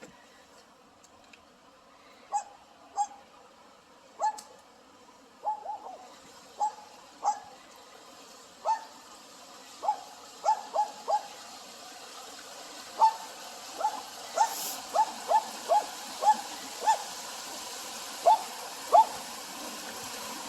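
A dog whimpering in about twenty short, high yips, spaced out at first and coming faster toward the end, over the rush of river water that grows steadily louder.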